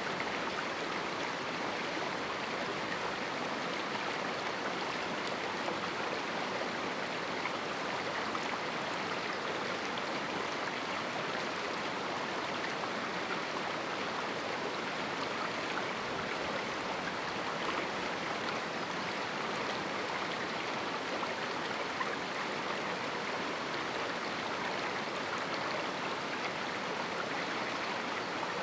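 A small river running over rocks in a canyon: a steady, even rush of flowing water.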